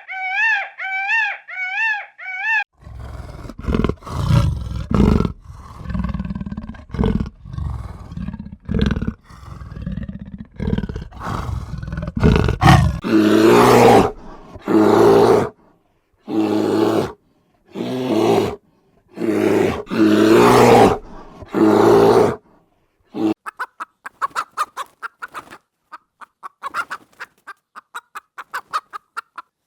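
A run of different animal calls: a short wavering call, then low rough roaring and growling, then a string of loud calls about a second each, and finally quick high-pitched chirping near the end.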